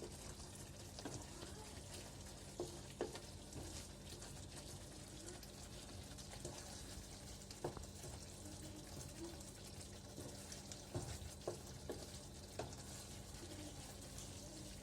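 Thick chicken gravy with ghee sizzling faintly in a pan, with scattered sharp clicks of a spoon stirring it against the pan. A steady low hum runs underneath.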